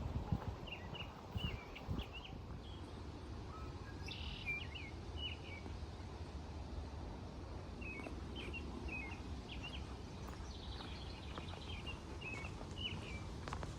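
A songbird chirping in quick little runs of notes, four bursts spaced a few seconds apart, over a steady low outdoor background hum.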